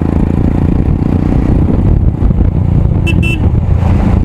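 Royal Enfield Himalayan's 411 cc single-cylinder engine running loudly through an aftermarket exhaust while riding. Two short horn toots come about three seconds in.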